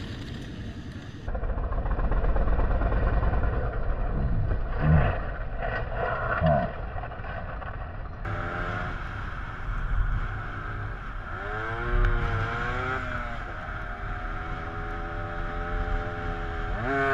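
Wind and road noise from a moving motorcycle. Then, about eight seconds in, a Derbi GPR 125 motorcycle's engine running with its pitch rising and falling several times as it is revved.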